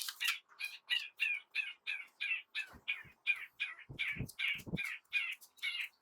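Rhythmic hand-tool scraping strokes, about three a second, each a short rasp, with a few low knocks partway through.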